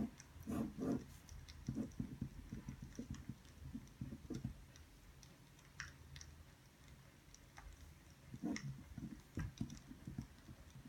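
Irregular soft clicks and light knocks from someone working at a desk, with a few louder clusters near the start and about two-thirds of the way through.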